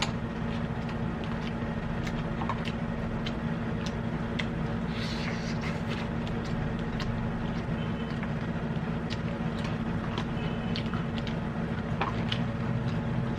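Eating sounds: scattered small clicks, taps and crunches of chewing and handling food, over a steady low hum.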